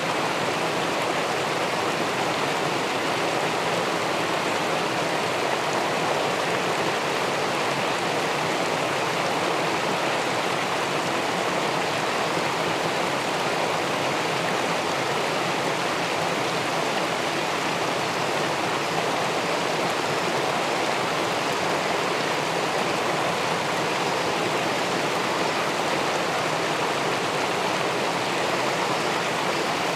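Steady rushing of river water pouring over a weir into the pool below, an even unbroken wash with no separate splashes.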